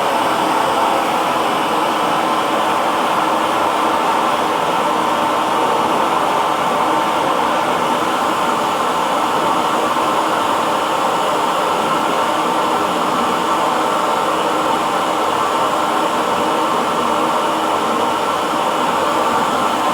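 Hair dryer running steadily: an even blowing rush with a faint, unchanging motor hum.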